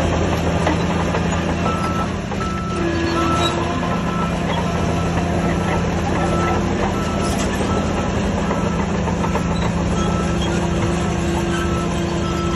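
Heavy diesel earthmoving machinery running steadily, with a reversing alarm beeping about twice a second from a couple of seconds in.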